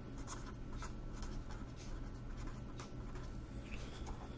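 Faint scratching of handwriting: short, irregular writing strokes over a steady low hum.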